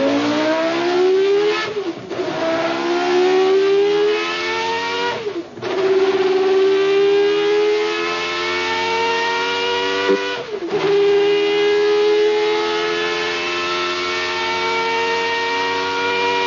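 Car engine accelerating hard through the gears. Its pitch climbs and drops sharply at three upshifts, then holds high and rises slowly.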